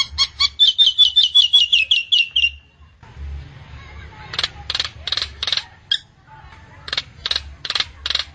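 A Jalak Nias bird singing. A fast run of about a dozen ringing whistled notes dips slightly in pitch at the end, and after a pause come two sets of four loud, harsh, rasping calls.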